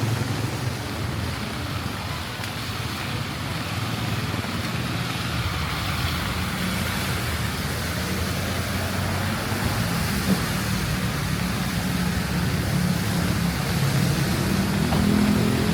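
Street traffic in the rain: vehicle engines running and tyres on wet road over a steady hiss of rain, with an engine growing louder near the end. A single short knock about ten seconds in.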